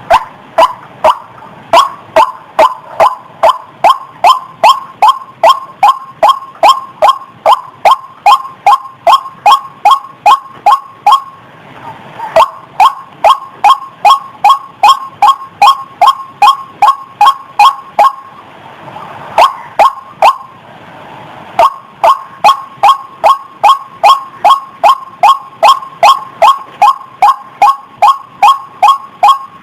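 White-breasted waterhen (ruak-ruak) calling: a long series of loud, harsh notes repeated about twice a second, breaking off briefly twice and starting again.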